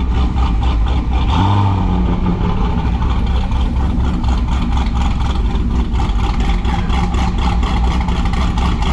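Car engine running loudly and steadily with a pulsing exhaust note. There is a brief rise in revs about a second and a half in.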